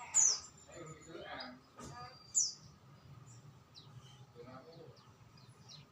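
A songbird giving short, sharp, high chirps that sweep downward: two loud ones, about a quarter second in and about two and a half seconds in, with fainter chirps between. Faint voices sit underneath.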